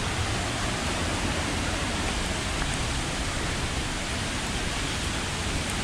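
Waterfall: the steady rush of falling water, an even noise without pauses or changes.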